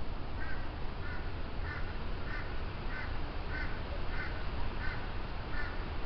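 A bird calling a short note over and over, about nine times at roughly two-thirds of a second apart.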